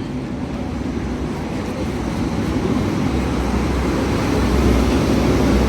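A train approaching along the platform, its rumble and hum growing steadily louder.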